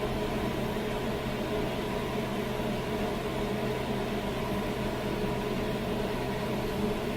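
A steady background hum with an even hiss, unchanging throughout, like a fan or appliance running in a small room; no distinct events.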